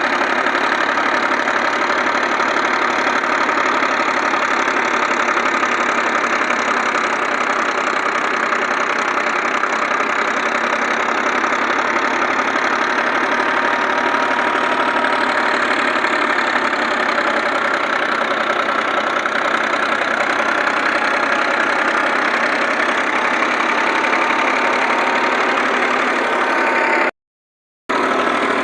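Tractor-driven wheat thresher and its tractor engine running steadily, a dense continuous mechanical din. The sound cuts out for under a second near the end.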